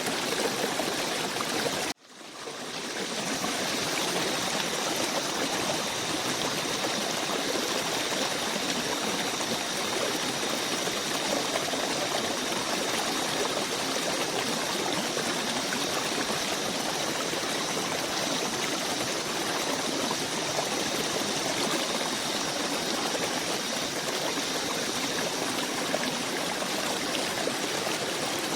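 Steady rushing of running water, like a forest stream. About two seconds in it cuts out suddenly and fades back in over a second or so.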